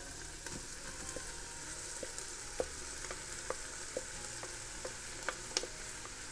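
Diced onions and bell peppers sizzling in oil in an electric pressure cooker's pot on sauté mode, a steady high hiss broken by irregular sharp clicks and pops.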